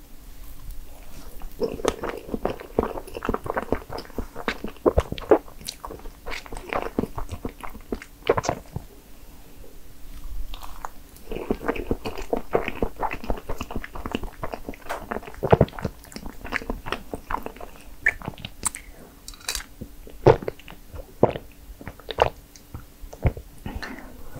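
A person chewing and biting strawberry crepe cake: two longer runs of chewing, with scattered single clicks and smacks between and after them.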